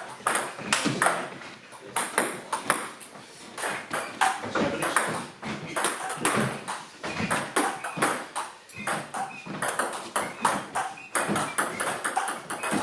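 Table tennis rally: a celluloid ball struck back and forth by bats and bouncing on the table, many quick sharp pings in succession.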